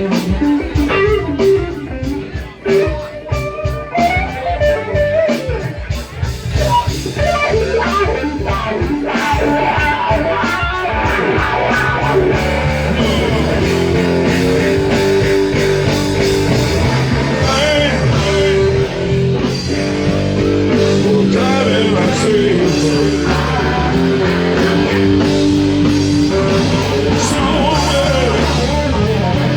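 Live band playing blues-rock. Guitar carries the opening on its own with gaps, then the full band comes in about twelve seconds in and plays steadily.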